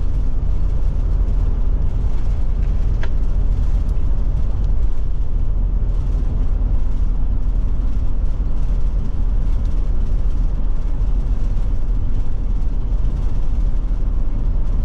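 Steady road and engine noise inside the cab of a Forest River Forester motorhome cruising at about 45 mph, heaviest at the low end. A brief click comes about three seconds in.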